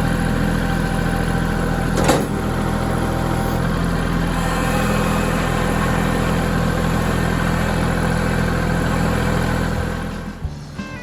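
Kubota L3901 tractor's three-cylinder diesel engine running steadily, with a single sharp knock about two seconds in. Near the end the engine drops away and music comes in.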